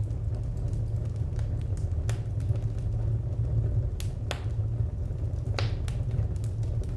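Wood fire crackling: scattered sharp snaps and pops of burning firewood over a steady low rumble, with the loudest pops about four seconds in and again a second and a half later.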